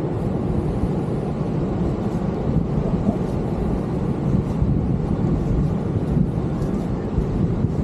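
Steady low roar of ocean surf and wind.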